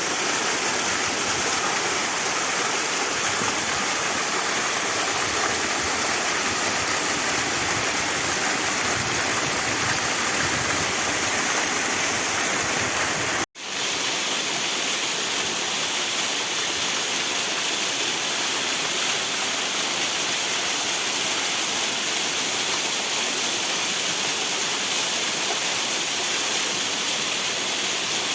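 Waterfall rushing steadily, an even roar of falling water. About halfway through, the sound drops out for an instant and comes back with less low rumble.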